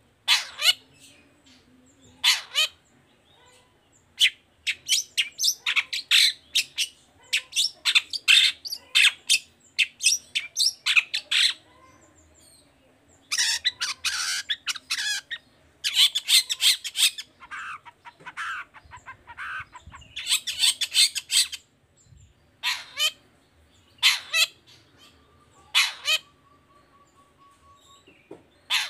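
Long-tailed shrike (cendet) calling: harsh, scratchy notes given in quick runs with short pauses between them. A faint thin whistle is held briefly near the end.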